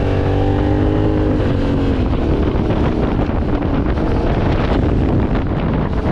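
Yamaha Ténéré 700's parallel-twin engine running on the move, with heavy wind rush over the microphone. The engine's steady tone stands out for about the first two seconds, easing slightly in pitch, before the wind noise covers it.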